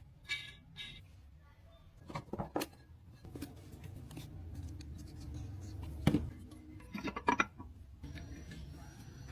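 Metal tools and parts clinking and knocking now and then over a low steady hum, with a few sharp clanks about 2, 6 and 7 seconds in.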